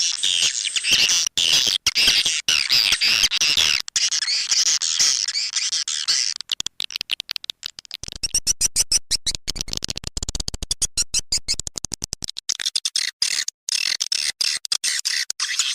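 Swiftlet call recording of dense, rapid twittering chirps and clicks, the lure sound played to attract swiftlets to a nesting house. From about 8 to 12 seconds in, a lower buzzing rattle of fast pulses runs under the chirping.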